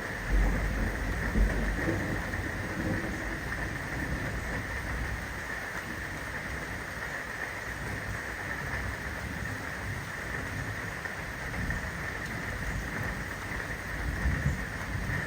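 Steady rain, with low rumbles about a second in and again near the end.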